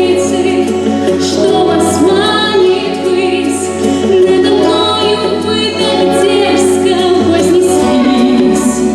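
A song sung with musical accompaniment: voices hold long, wavering notes over a sustained bass line, which steps to a lower note near the end.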